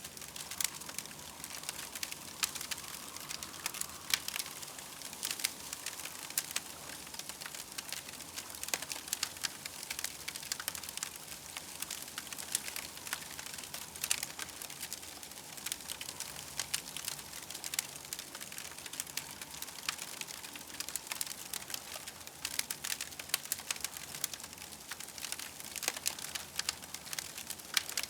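Campfire crackling: dense, irregular small pops and snaps over a soft hiss, steady throughout.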